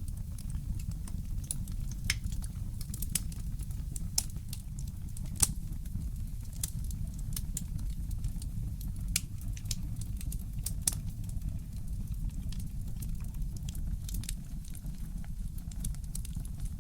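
Wood fire crackling in a fireplace: irregular sharp pops and snaps, one louder about five seconds in, over a steady low rumble.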